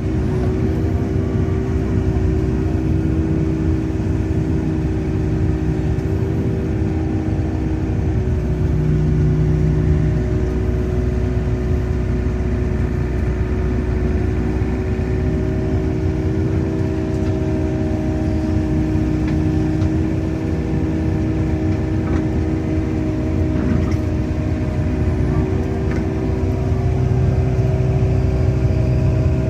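Hyundai R80-7 excavator's diesel engine running steadily, heard from inside the cab as a constant low hum with a few steady tones above it. The low part of the hum swells briefly about a third of the way in and again near the end.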